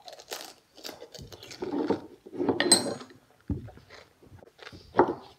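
A mouthful of egg being chewed, with muffled, garbled attempts at speech through the full mouth and a few sharp clicks or knocks.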